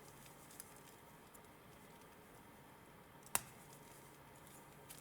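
Stainless steel watch bracelet's folding clasp with safety being worked: a faint click about half a second in and one sharp metallic click a little past three seconds in, over near silence.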